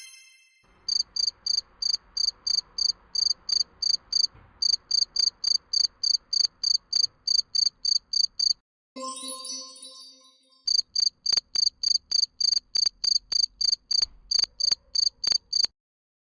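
Cricket chirping in a steady, even rhythm of about three high chirps a second, broken about halfway through by a short bell-like chime.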